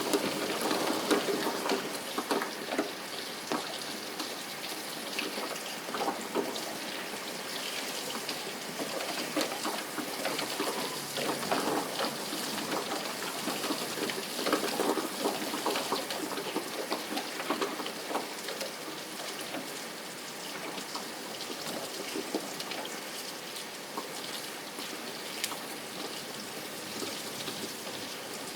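Steady rain falling, with many separate drops heard through it; a little louder in the first couple of seconds, then even.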